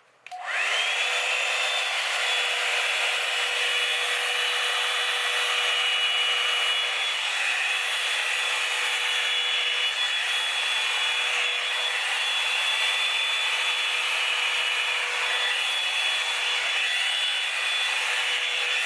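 Revlon One-Step hair dryer brush switched on at high speed: its motor whines up over the first second, then runs with a steady blowing whine. The bristles drag through the hair with a harsh sound.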